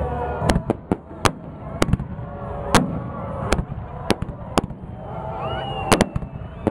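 Fireworks display: a string of about a dozen sharp bangs from bursting shells at irregular intervals, over a low rumble.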